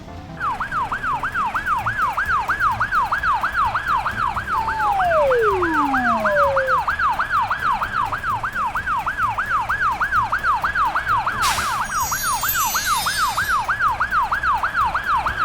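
Cartoon ambulance siren sounding a fast, steady yelp, about three rising-and-falling sweeps a second, starting just after the beginning. About five seconds in, two falling whistle-like glides sound over it, and past the middle a brief rush of noise is followed by a descending twinkle of tones.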